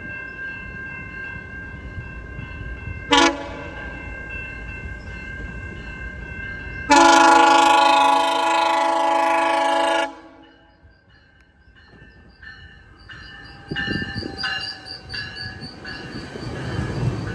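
GO Transit train horn sounding for a level crossing: a long blast, a short blast about three seconds in, then a loud long blast of about three seconds from seven seconds in. Near the end a bell dings rapidly and the train's rumble grows as it approaches.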